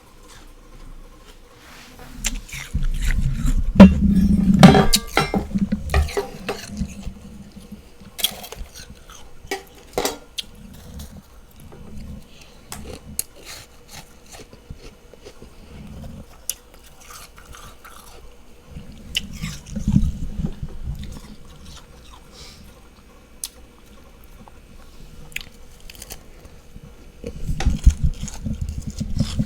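Freezer frost being bitten and chewed at close range: crackly crunching in bouts, heaviest a few seconds in, again around two-thirds through and near the end, with quieter chewing between.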